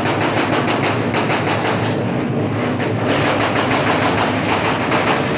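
Motorcycle engine running loudly nearby, its exhaust giving a rapid, even train of pulses.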